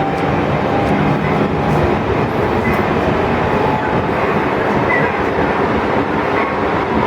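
Odakyu 3000 series commuter train car under way, heard from inside the passenger cabin: a steady rumble of wheels and running gear on the track, with faint whining tones that come and go.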